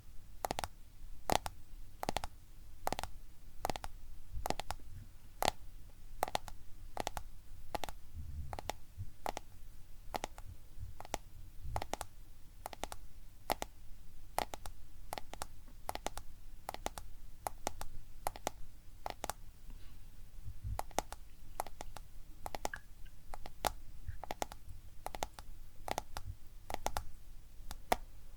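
Fingertips or nails tapping on a smartphone, in steady close-miked taps about two a second.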